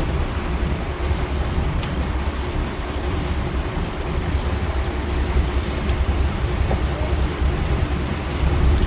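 A charter fishing boat's engine running steadily, a low rumble under wind and water noise.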